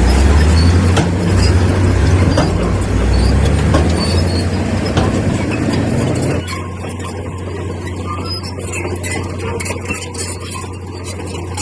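Heavy diesel earthmoving machinery running, with clanks and a squeal; the sound drops suddenly to a quieter, steady engine drone about six seconds in.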